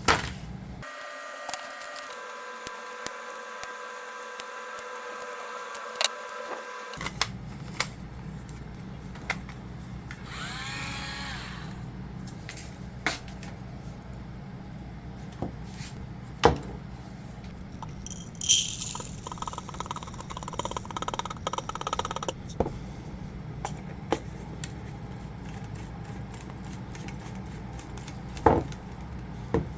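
Clicks and knocks from handling a battery-powered electric salt and pepper grinder, with a few seconds of steady small-motor whir early on and a noisier stretch of grinding-like sound about two-thirds of the way through.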